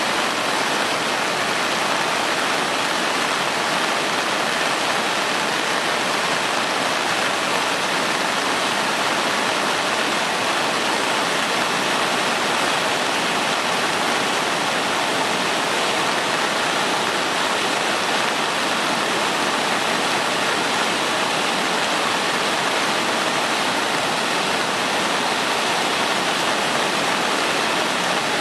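Sogi Falls, a wide river waterfall swollen by continuing heavy rain, pouring with a steady, unbroken rush of water.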